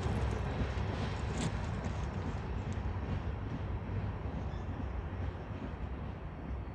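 Union Pacific manifest freight train rolling by, a steady low rumble that slowly fades as the train moves away. There is one sharp click about a second and a half in.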